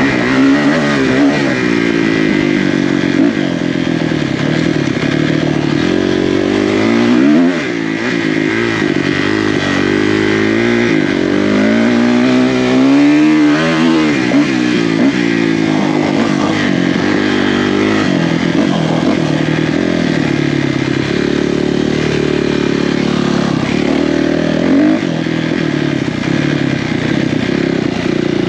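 Off-road motorcycle engine being ridden hard. It revs up and down continuously, its pitch rising and falling with throttle and gear changes.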